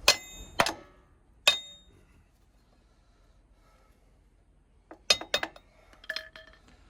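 Hammer blows on steel at a truck's wheel hub, struck to turn the hub nut: three sharp, ringing metal strikes in the first second and a half, then a quick run of metal clinks near the end.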